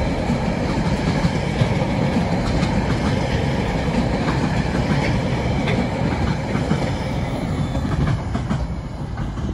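Wagons of a Tasrail freight train rolling past on the rails: a steady rumble with occasional wheel clicks, easing off near the end as the last wagons draw away.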